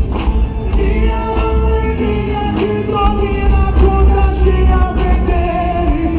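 A live gospel band playing with sung vocals over a strong bass.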